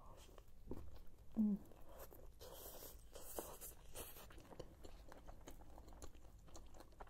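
Close-up mouth sounds of a person chewing a bite of shawarma in lavash: many small wet clicks and soft crunches. About one and a half seconds in there is a brief, falling hum of the voice, the loudest moment, and a stretch of soft rustling follows in the middle.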